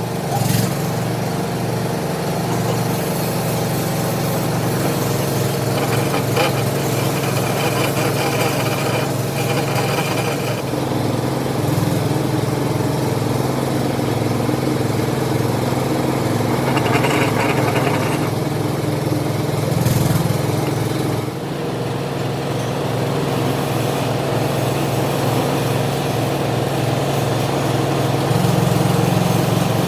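Machine-shop machinery running steadily with a low, even motor hum. Short stretches of higher-pitched cutting noise come in a few times.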